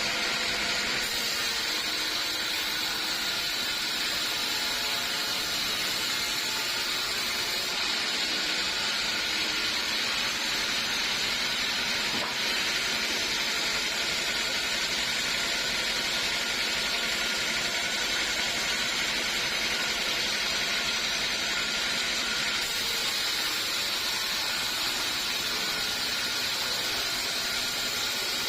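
Sawmill saw running steadily through a teak log, a continuous even whine and hiss with no breaks.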